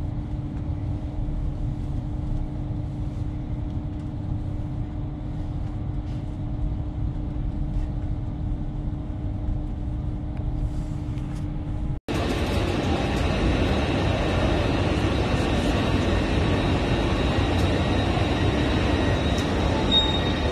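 Cabin sound of a Lumo Class 803 electric train running: a steady low rumble with a steady hum. About twelve seconds in it cuts suddenly to the louder, noisier sound of a station platform beside standing trains, with faint high whines.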